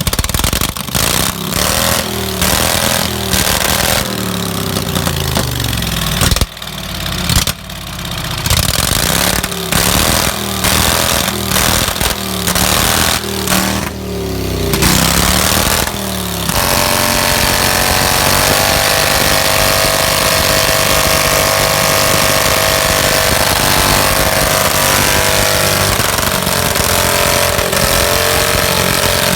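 Small tractor engine running, revved unevenly up and down over and over. About halfway through it settles into a steady, fast, even run.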